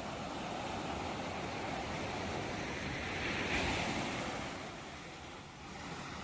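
Ocean surf: a wave builds to a crash about halfway through, then washes back and fades before the next one begins to rise near the end.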